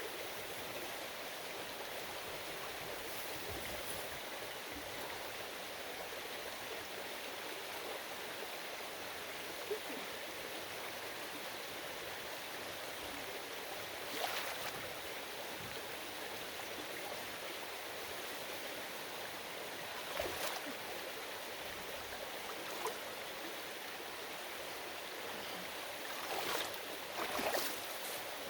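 Creek water flowing steadily, with a few short, louder sounds standing out, the strongest cluster near the end.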